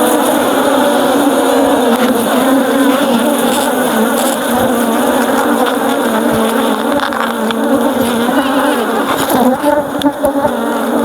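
Honeybee colony buzzing loudly and steadily in an open hive, the bees swarming close around the microphone: the hum of a very active colony.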